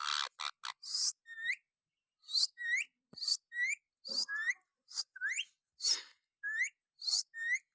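A pet parrot giving a quick series of short chirps and whistles, many of them rising in pitch, about two a second.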